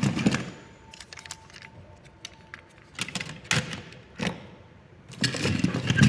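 Scattered clicks and knocks of plastic toys being handled, with a quick cluster of them near the end.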